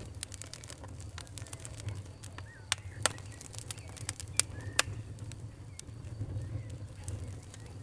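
Wood fire crackling, with irregular sharp pops over a steady low rumble; the loudest snaps come about three and four and a half seconds in.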